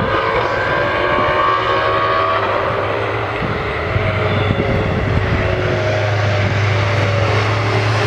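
Car engines running at a drag strip: a steady low engine rumble under higher engine notes that slowly fall in pitch.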